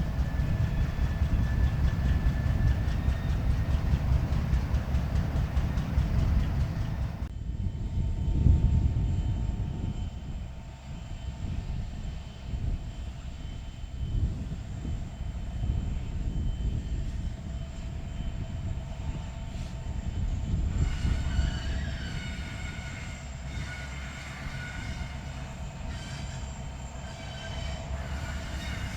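Freight train cars rolling slowly during switching, with a continuous low rumble. From about three-quarters of the way through, thin, wavering steel wheel squeal joins in.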